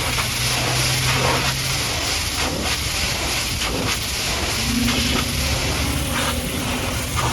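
High-pressure water jet from a pressure washer spraying steadily, a loud hiss, with a low machine hum underneath.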